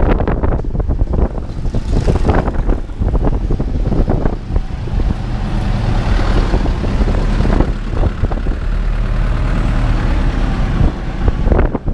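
Motorbike running on the road while being ridden, with wind buffeting the microphone in irregular gusts over a steady low rumble.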